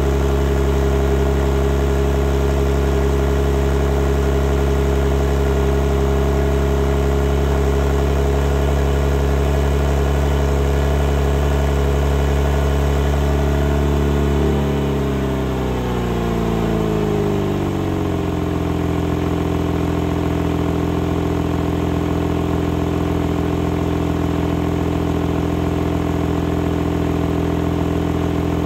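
Porsche 911 Targa GTS flat-six idling from cold, heard at the tailpipes. It runs at a steady raised fast idle, then about halfway through the engine speed drops smoothly over a few seconds and settles into a lower, steady idle as the cold-start fast idle ends.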